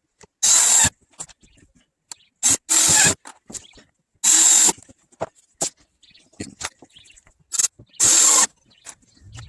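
Power drill run in five short bursts, each under half a second, with small clicks and knocks between.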